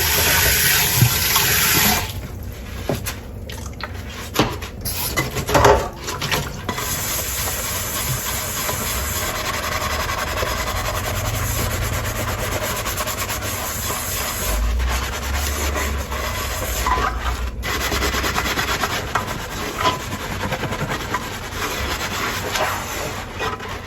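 Dishes being washed by hand at a sink: a tap runs for the first couple of seconds, then a sponge rubs and scrubs against dishes, with scattered clinks and knocks of tableware.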